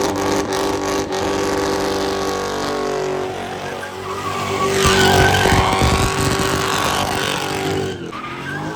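A car doing a burnout: the engine is held at steady revs while the tires spin, and tire squeal and scrubbing swell about halfway through. The engine note falls away near the end.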